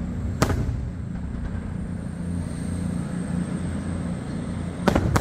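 Aerial fireworks going off: a sharp bang about half a second in and two more in quick succession near the end, over a steady low rumble.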